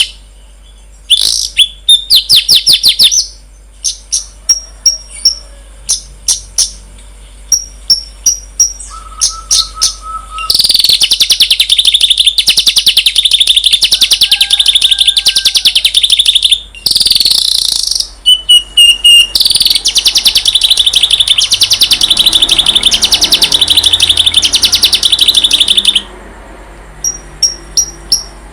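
Recorded songbird song: quick runs of sharp high chirps and short whistles, then two long, fast, buzzing trills, with sharp chirps again near the end.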